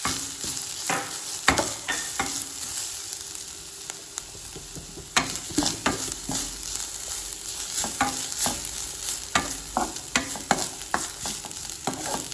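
Grated coconut sizzling in hot ghee in a pan: its moisture is cooking off. It is stirred with a spatula that scrapes and knocks against the pan in irregular strokes, which ease off for a couple of seconds and pick up again about five seconds in.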